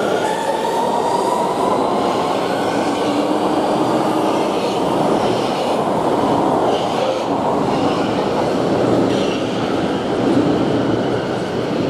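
Metro train running on rails: a loud, steady rumble of wheels and running gear, with a thin motor whine rising in pitch over the first few seconds.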